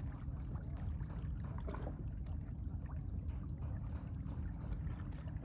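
Calm sea water lapping and washing at the shore, a steady low rumble with faint small splashes and ticks over it.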